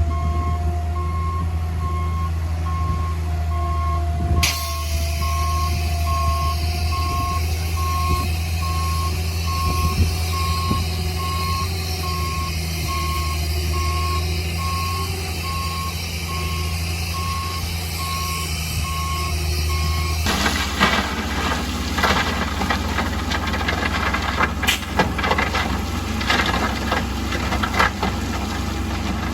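Heavy construction machine's diesel engine running with a reversing alarm beeping steadily; about two-thirds of the way through, the beeping stops and irregular clanks and knocks join the engine.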